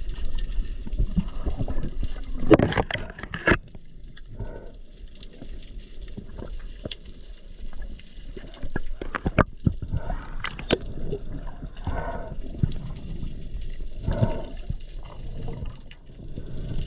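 Water sloshing and gurgling, with scattered sharp clicks and short bubbly bursts at irregular moments, the strongest about three seconds in and again around ten seconds in.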